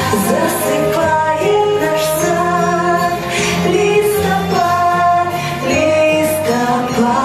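A song with a high, female-sounding voice singing a melody over instrumental accompaniment with steady bass notes.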